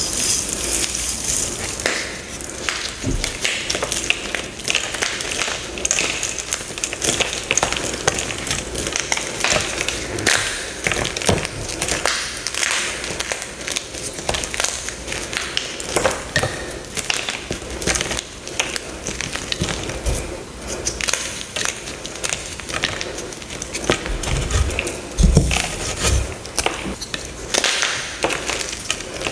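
Dyed gym chalk blocks being crushed, a continuous run of crisp, crunchy crackling with a few duller thuds near the end.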